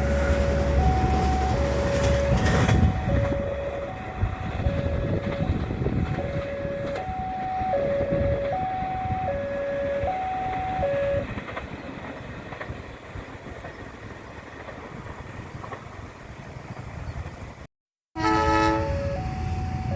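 A passing train's rumble, loud for the first several seconds and fading away after about eleven seconds, under an electronic warning alarm that alternates between two tones, as at a railway level crossing. Near the end the sound cuts out for a moment and the two-tone alarm resumes.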